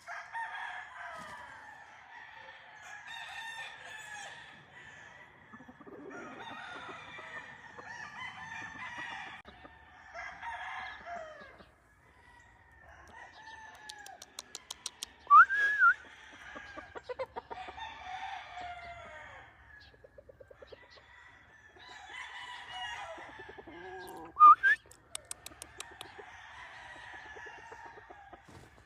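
Several gamefowl roosters crowing one after another and overlapping, with some clucking. Twice, about halfway and again near the end, a single crow sounds much louder and closer, rising sharply in pitch.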